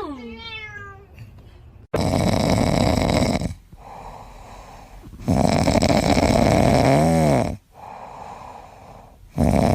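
A sleeping pet snoring loudly, three long snoring breaths a few seconds apart. Just before them comes a short whine that falls in pitch.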